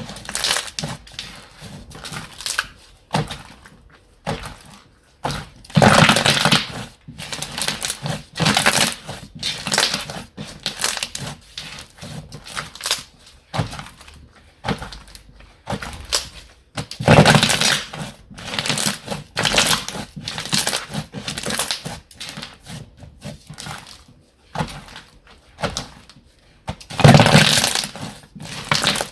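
Hands squeezing and working slime, in irregular noisy bursts that come every second or so, the loudest about 6, 17 and 27 seconds in.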